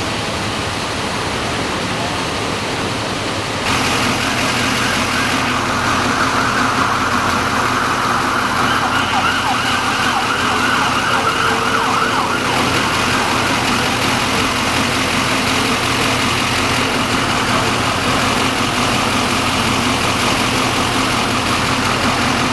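Road traffic and emergency vehicles running at a crash scene: a steady wash of engine and road noise, with a siren-like tone through the middle. The sound steps up in loudness about four seconds in.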